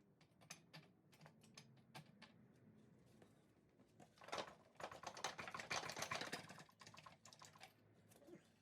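Faint socket ratchet clicking as the transmission-to-engine bolts are worked loose. Scattered single clicks, then a dense run of rapid ratcheting clicks through the middle.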